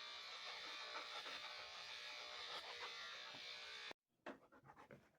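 Electric dog grooming clippers running with a faint, steady buzz, cutting off suddenly about four seconds in, followed by a few faint clicks.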